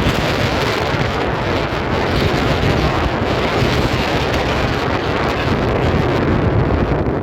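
Strong wind blowing across the microphone: a loud, steady rush of rumbling noise that swells and eases a little.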